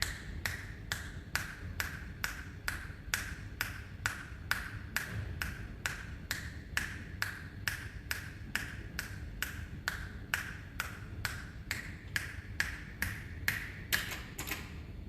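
Metronome click track ticking steadily at a little over two clicks a second over a low hum; the last few clicks near the end come closer together.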